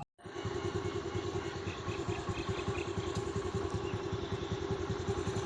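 Motorcycle engine idling steadily, beginning abruptly after a split-second gap.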